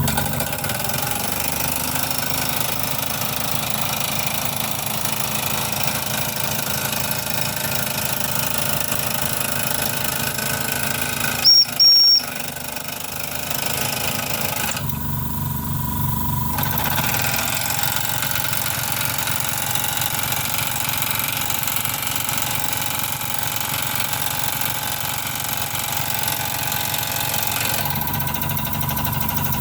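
Mamod TE1a model live-steam traction engine running under steam with a rapid, even chuffing beat. About eleven seconds in, a short, loud, high-pitched whistle sounds twice.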